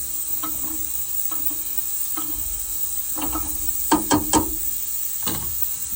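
Ultrasonic parts cleaner running with a steady buzzing hiss, RC engine parts soaking in its heated tank. A few short clicks come through it, three sharp ones close together about four seconds in.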